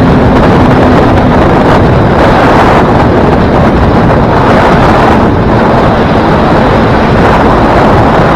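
Loud, steady wind rushing over the microphone of a motorcycle riding at highway speed. The engine's steady hum is faintly audible beneath it for about the first second.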